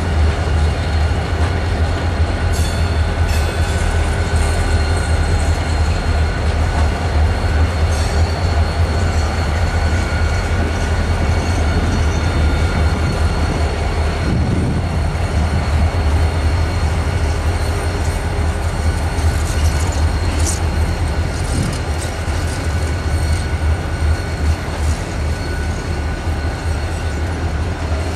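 Freight train rolling slowly past, with the steady low rumble of EMD SD40-series diesel locomotives. Wheels click now and then over rail joints, and a thin wheel squeal runs along under it.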